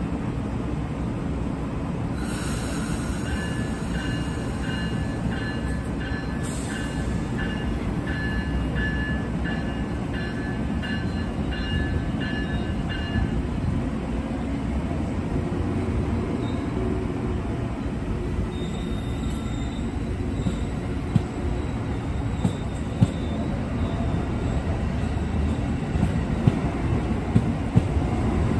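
Amtrak Amfleet passenger cars rolling past close by on a curve: a steady rumble of wheels on rail. For the first half a high-pitched wheel squeal pulses about twice a second. Sharp clacks of wheels over rail joints come near the end.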